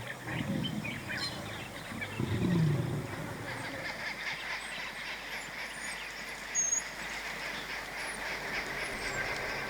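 Savannah ambience: many birds chirping over a steady high insect drone, with a few low animal calls, one falling in pitch, in the first three seconds.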